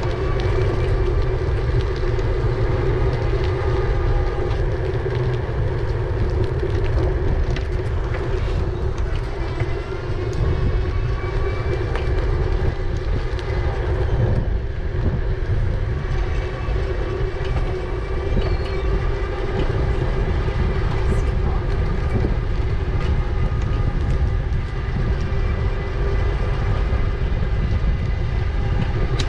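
E-bike riding along: a steady low wind rumble on the microphone with a constant hum from the bike.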